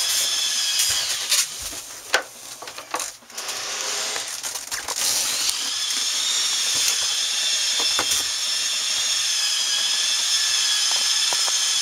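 Small electric motor whining steadily, in the manner of a power tool. It drops out for a few seconds with a couple of sharp clicks, then runs on again.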